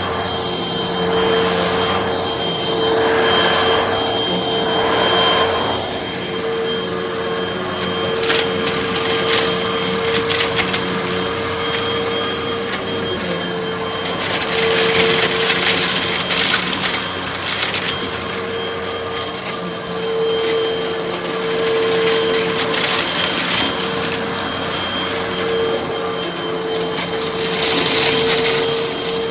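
Hoover vacuum cleaner running with a steady motor hum, sucking up light, dry debris that crackles and crunches through the nozzle. The crackling thickens from a few seconds in and comes in louder surges.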